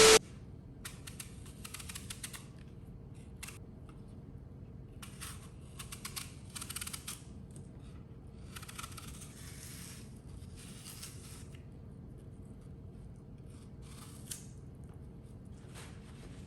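Quiet room tone with a steady low hum, broken by several soft, hissy rustling or scraping sounds lasting a second or two each.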